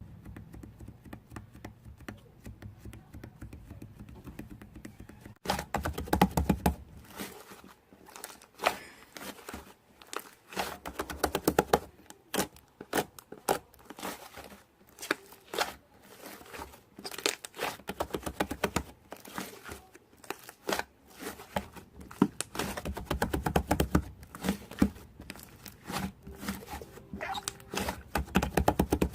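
Slime being squished and poked by hand, giving dense runs of wet clicking and crackling pops that start about five seconds in after a quieter opening.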